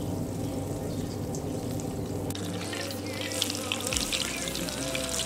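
Panko-breaded potato balls frying in hot lard in a cast iron skillet, sizzling with a fast crackle of small pops that starts about two seconds in. Background music plays underneath.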